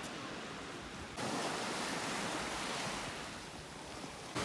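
Steady rushing noise of wind and water, with no distinct events; it jumps suddenly louder about a second in.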